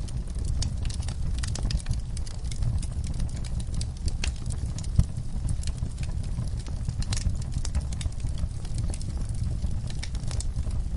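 A fire in a fireplace crackling, with frequent small irregular pops over a steady low rumble of the flames, and one louder pop about five seconds in.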